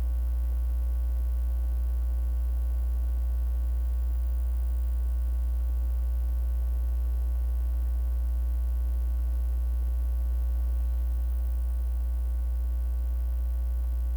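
Steady electrical mains hum with a ladder of higher buzzing overtones, unchanging throughout: a hum fault in the sound system's recording feed.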